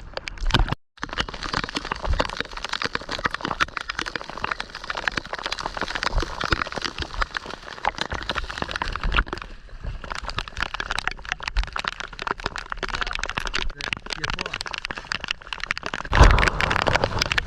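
Rain falling on the sea surface: a dense, steady crackle of many small drops, with a louder rush near the end.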